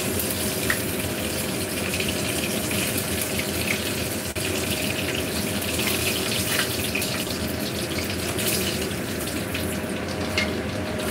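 Eggplant slices topped with minced fish shallow-frying in hot oil in a pan: a steady sizzle with small scattered crackles and pops.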